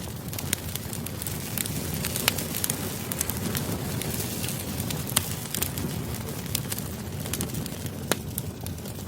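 Campfire burning: a low, steady rumble of flames with frequent sharp crackles and pops at irregular intervals.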